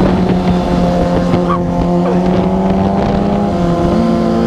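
Kawasaki Ninja 250R parallel-twin with an aftermarket slip-on exhaust, running at a steady cruise under way, with wind rushing. The engine note dips briefly near the end and then settles a little higher.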